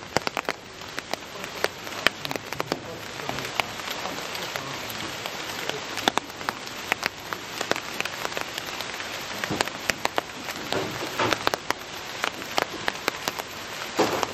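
Rain falling steadily, with many irregular sharp ticks of single drops striking close by over the even hiss of the rainfall.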